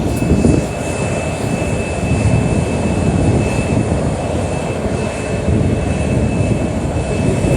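Airliner engines running loud, a deep rumble with a steady high whine over it.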